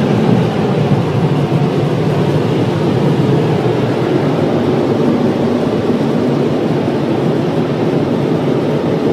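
Car wash air dryers blowing on the car, a loud steady roar of air heard from inside the cabin.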